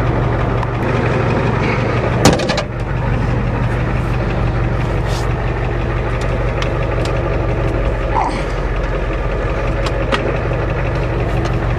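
Ford diesel truck engine running steadily with no exhaust system or muffler fitted. A single sharp knock a little over two seconds in.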